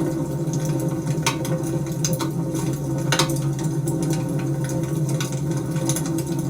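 Wood fire crackling, with scattered sharp pops, the clearest about a second and about three seconds in, over a steady low hum.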